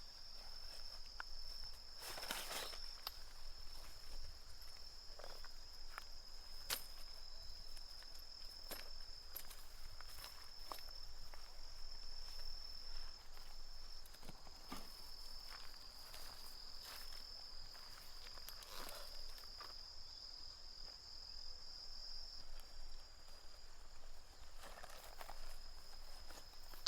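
An insect sings one steady, high-pitched trill outdoors. Scattered light clicks and rustles of movement sound over it.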